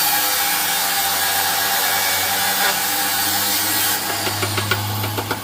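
Gas welding torch hissing steadily while a rusted motorcycle petrol tank is welded. About four seconds in the hiss stops, and a rapid run of knocks, about five a second, follows over a low hum.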